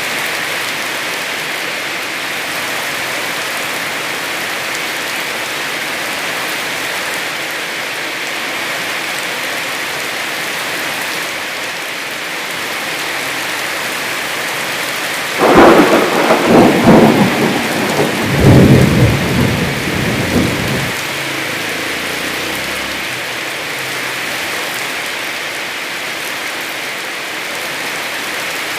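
Heavy rain falling steadily. About halfway through, a sudden crack of thunder with crackling and rumbling that lasts about five seconds and then dies away, leaving the rain.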